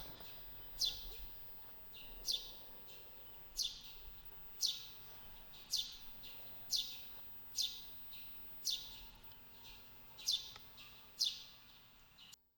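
A bird calling over and over, a short high note that falls in pitch, about once a second.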